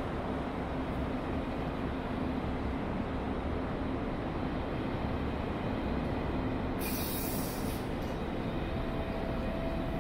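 ICE high-speed train arriving along a station platform, its carriages rolling past with a steady rumble of wheels on rails. A short hiss comes about seven seconds in.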